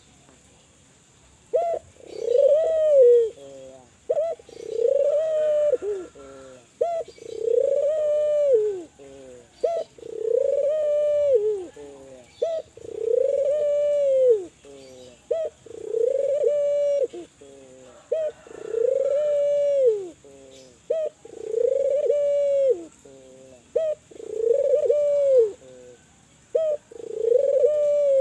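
Spotted dove (Kelantan tekukur) cooing its song over and over, starting about a second and a half in, about every two and a half to three seconds. Each phrase is a short note, then a long arched coo, then a quick run of short falling notes.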